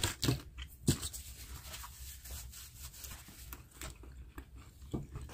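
Mouth sounds of someone chewing juicy orange segments: soft wet smacks and clicks, with a few sharper clicks at the start, about a second in and near the end.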